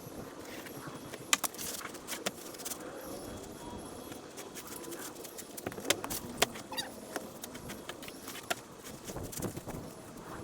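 Building work: scattered sharp clicks and light metallic clinks of tools and hardware being handled, over a steady background hum.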